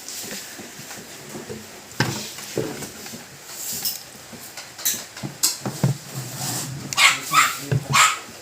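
A dog barks three times in quick succession near the end, after a few scattered knocks and clatters.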